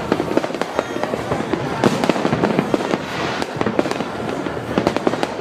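Many fireworks and firecrackers going off at once: a dense, continuous string of bangs and crackles, several a second.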